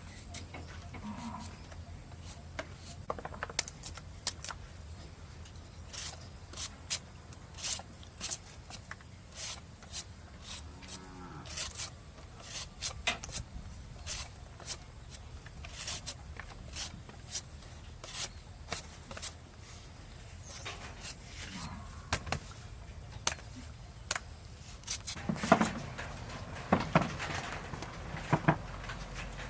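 A series of sharp, irregular clicks and taps, one or two a second, with a few louder knocks near the end over a low steady hum.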